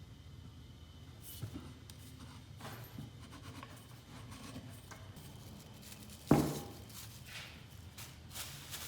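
Faint scratching and rubbing from hand work, with a few light knocks and one sharp knock about six seconds in.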